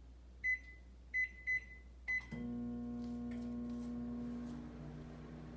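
Microwave oven keypad beeping four times as the cooking time is entered. About two seconds in, the oven starts with a click and runs with a steady hum.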